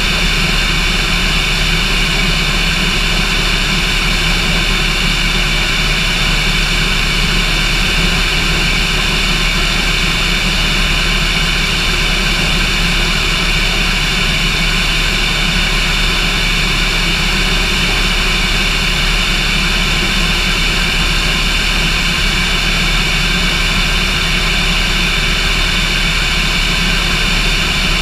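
Cessna light aircraft's engine and propeller running steadily, with an even drone that holds the same pitch and level throughout.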